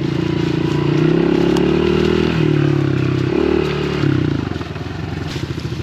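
Small 110cc pit bike engine running while riding, its pitch rising and falling twice as the throttle is worked. It drops to a lower, quieter note after about four seconds.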